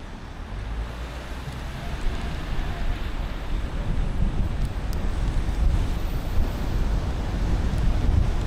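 Car driving on a wet road in the rain: a steady hiss of tyres and spray over a low road rumble that grows gradually louder.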